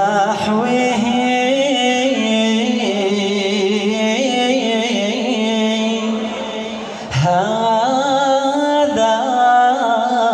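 A male voice singing an Arabic nasheed in long, ornamented held notes that slide between pitches. He breaks off briefly for a breath about seven seconds in, then goes on.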